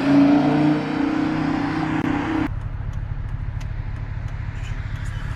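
A car engine running steadily, its humming tone cutting off abruptly about halfway through and leaving a lower, steady engine rumble.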